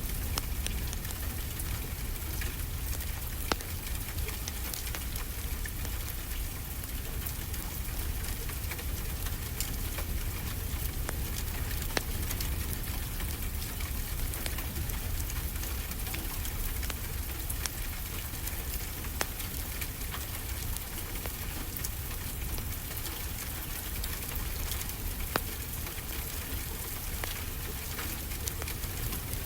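Fireplace crackling, with many small ticks and a few sharper pops, over a steady low rumble and hiss of ocean surf.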